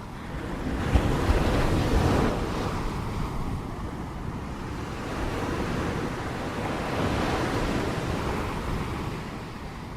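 Ocean waves crashing on the shore as a steady wash of surf. Two waves break, the louder one about a second in and a softer one around seven seconds in.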